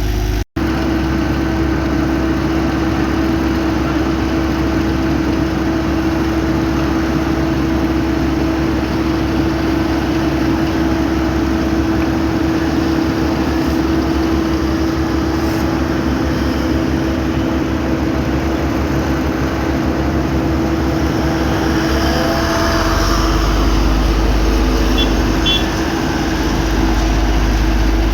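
Heavy road-paving machinery running steadily, a constant engine hum with a steady droning tone over a low rumble; the low rumble grows louder about three quarters of the way through.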